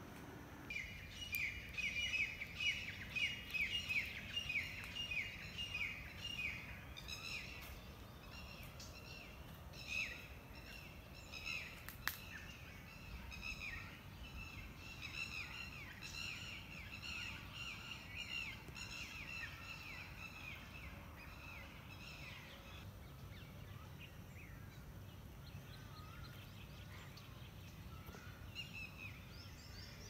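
Birds chirping: quick runs of short, downward-slurred chirps, densest in the first several seconds and thinning out after about twenty seconds, over a faint low background rumble.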